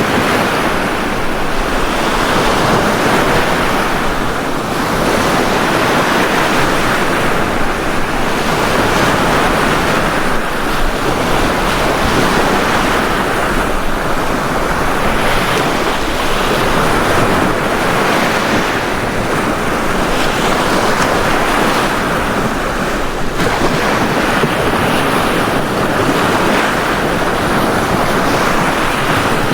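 Ocean waves breaking and washing on a beach, a continuous surf that swells and eases every few seconds.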